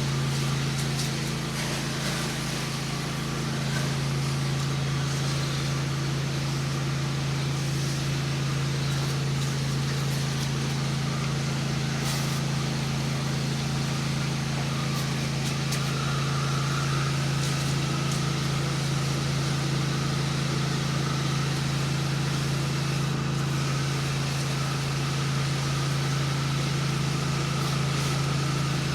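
Pressure washer engine running at a steady speed, with the even hiss of the water spray over it.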